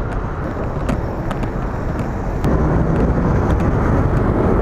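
Street traffic noise. About halfway through, a motor vehicle's engine hum grows louder and steadier, with a few sharp clicks over it.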